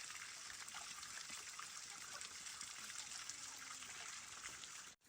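Water running steadily: an even hiss with faint scattered ticks.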